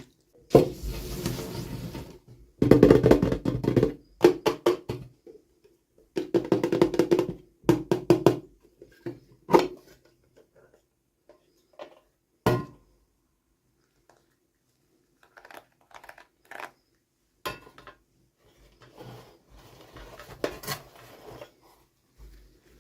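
Hands unboxing small plastic toys: bursts of packaging rustling and crinkling with sharp clicks and taps, loudest in the first ten seconds. A single sharp click follows, then softer scattered ticks and rustles.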